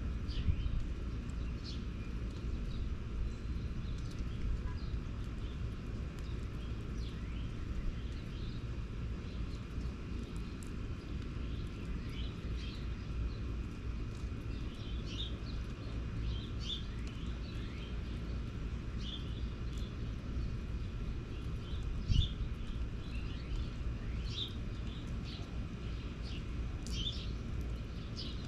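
Small birds chirping in quick, short notes, busier in the second half, over a steady low rumble, with a single knock about three-quarters of the way through.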